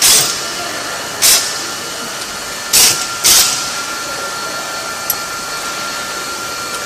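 GQ40 rebar cutting machine running steadily on its electric motor, with a steady whine over a drone. Four short, loud, noisy bursts break in: one at the start, one about a second in, and two close together around three seconds.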